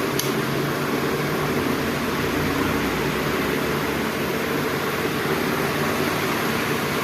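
DC pedestal fan running steadily on a reduced speed setting: a steady rush of air over a low motor hum, which shows the repaired speed selector now changes the speed. A short click comes just after the start.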